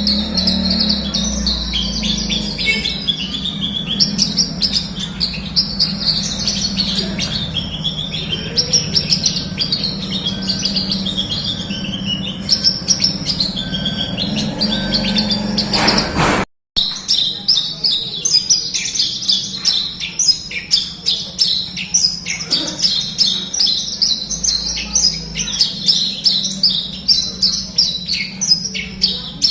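Javan bush lark (branjangan) singing a fast, continuous run of rapid high notes over a low steady hum. The sound cuts out for a moment about halfway through, then the song resumes.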